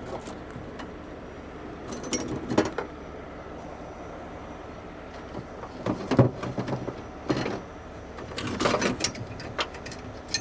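An engine idling steadily, with irregular sharp metallic clanks and rattles in several short clusters, the loudest about six seconds in.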